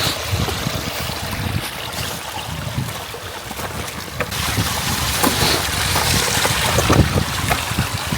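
Mountain stream water rushing steadily, growing louder about four seconds in, with irregular low thumps of wind buffeting the microphone.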